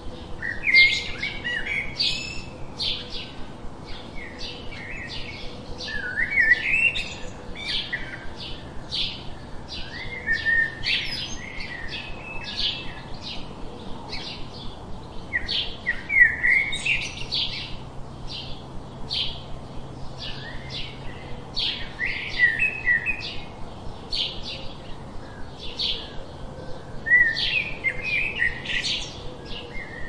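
Small songbirds chirping: a steady run of short, high chirps about two a second, broken every few seconds by a brief warbled phrase.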